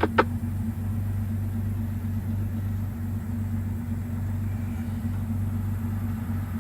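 Steady low drone of a car heard from inside the cabin while driving.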